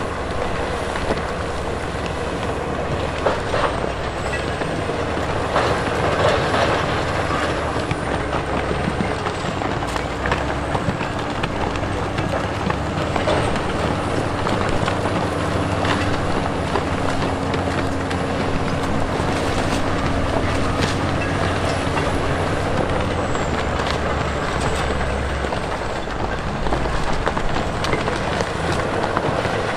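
Diesel heavy earthmoving machinery running steadily under load, with a constant engine hum and scattered metal clanks and rattles.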